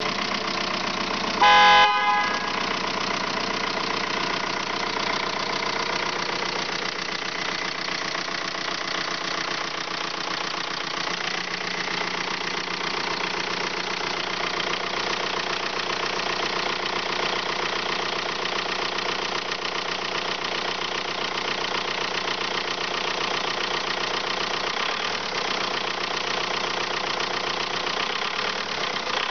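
2003 Volkswagen Jetta engine running steadily during a used-engine test run. A short, loud horn beep comes about a second and a half in.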